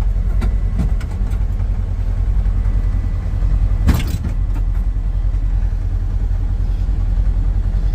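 Side-by-side utility vehicle idling, a steady low rumble, with a single short knock about four seconds in.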